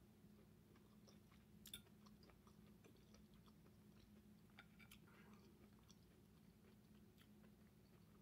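Near silence with faint close-up chewing: soft mouth clicks every so often, the clearest one a little under two seconds in, over a steady low hum.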